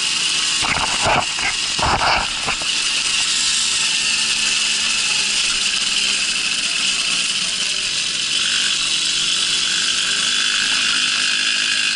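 A Babetta two-stroke moped running steadily while it is ridden over rough ground, its frame rattling, with a few sharp knocks about one to two and a half seconds in.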